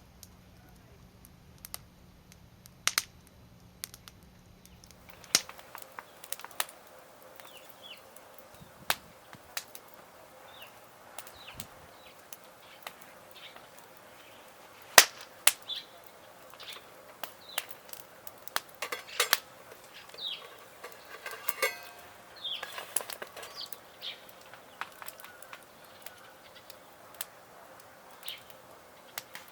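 Wood fire crackling: sharp, irregular pops and snaps, the loudest about 15 seconds in, with birds chirping in the background.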